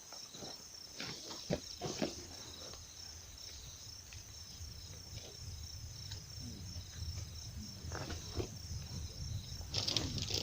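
Insects chirping in a steady, evenly pulsing high trill, with scattered footsteps and scuffs, a cluster near the end.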